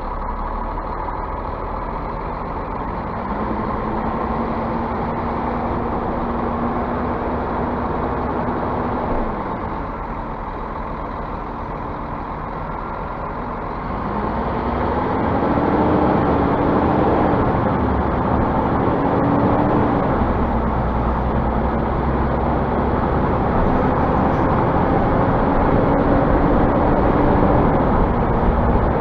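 Scania bus diesel engine under way, pulling through its gears: the engine note climbs and holds, then drops, three times, louder in the second half.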